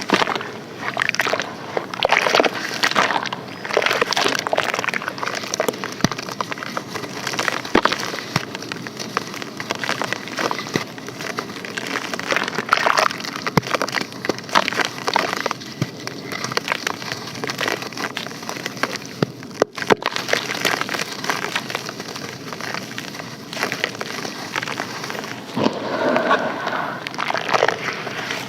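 Pressed sand and charcoal crumbling and breaking apart: a dense, continuous crackle of small crunches, with louder spurts now and then.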